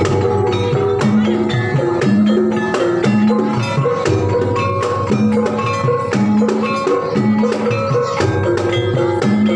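Banyumasan gamelan music for an ebeg (jatilan) horse dance: tuned percussion plays repeating ringing notes over frequent drum strokes in a steady rhythm.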